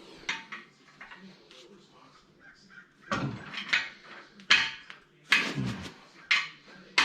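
Crows cawing: a run of short, harsh caws starting about three seconds in.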